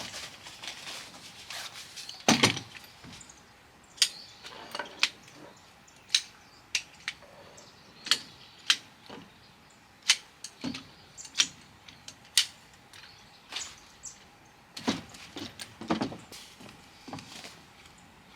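Irregular sharp clicks and knocks, roughly one a second, from objects being handled and set down, with a few duller thumps, the loudest about two seconds in.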